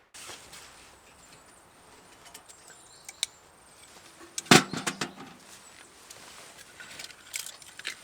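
Small clicks and knocks of metal objects being handled, with one loud clank about halfway through that rings briefly.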